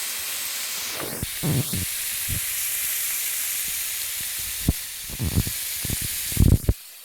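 Food sizzling on a hot plate, a steady hiss with several low knocks and bumps, cutting off suddenly near the end.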